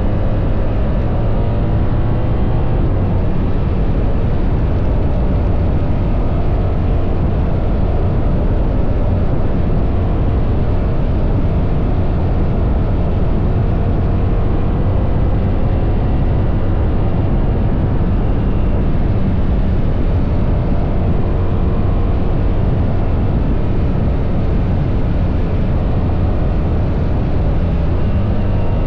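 BMW R1300 GS boxer-twin engine running steadily under way, its pitch drifting slowly up and down, over a constant rush of wind and road noise.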